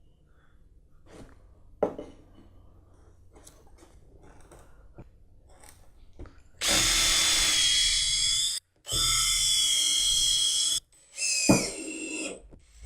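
Power drill driving screws into a wooden hive-stand leg. After a few seconds of faint handling knocks, the drill runs twice for about two seconds each with a steady whine, then once more briefly near the end, with a sharp knock.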